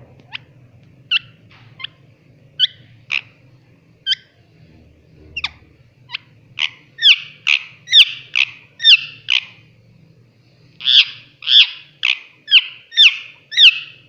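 A pet parrot giving a string of short, sharp calls. They come singly at first, then faster and louder from about six seconds in, with a brief pause before a last loud run.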